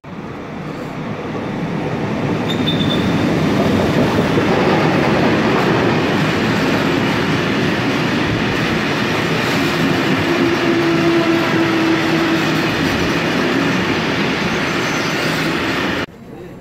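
Freight train running past at close range: a steady rumble and clatter of wagon wheels on the rails. It builds over the first few seconds, with brief wheel squeals, and cuts off abruptly near the end.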